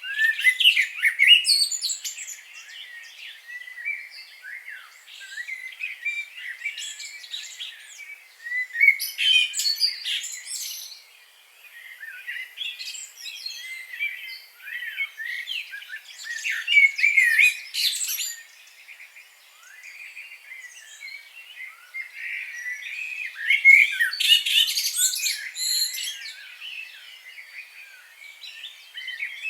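Several birds chirping and singing at once, a dense chorus of quick, high chirps and trills that swells into louder bursts four times.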